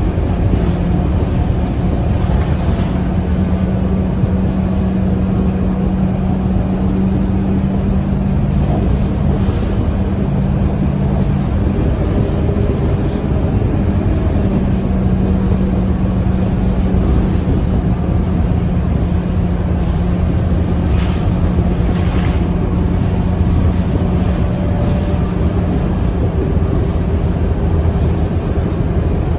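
Scania K230UB city bus's diesel engine running with road noise, a steady drone with a strong hum, and two short hisses a little past two-thirds of the way through.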